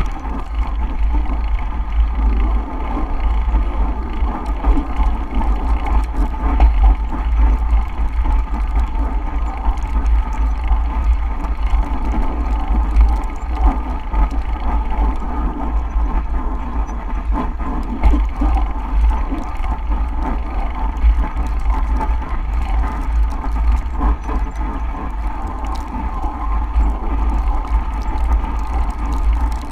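A bicycle being ridden through snow, its tyres and drivetrain running steadily under a heavy, constant rumble of wind on the microphone.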